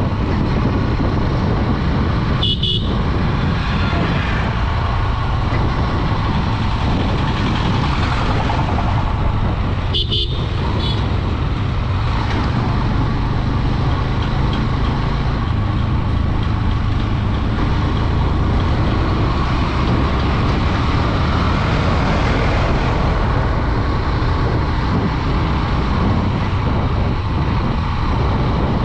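Honda Dream 110 commuter motorcycle riding steadily, its 110cc engine running under a constant rush of wind and road noise. A vehicle horn gives two short toots, about two and a half seconds in and again about ten seconds in.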